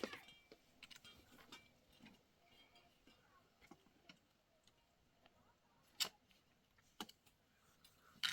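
Near silence broken by small scattered ticks and three sharp clicks or knocks, each about a second apart, in the second half.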